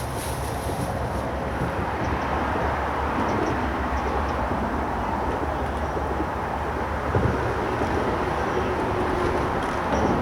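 Steady rumble of continuous road traffic on a busy dual-carriageway bridge, an even wash of tyre and engine noise without a break.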